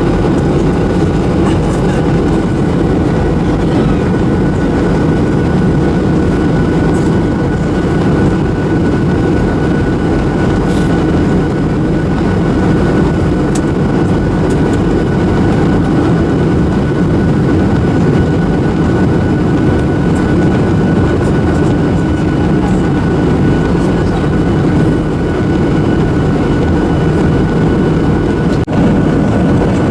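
Steady cabin noise inside a Boeing 737-800 airliner during descent: a deep, even rush of airflow and CFM56-7B turbofan engines, with a thin steady whine above it.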